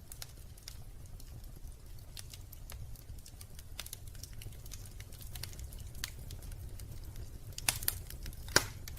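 Wood fire crackling in a fireplace: scattered small crackles over a low steady rumble, with two louder pops near the end.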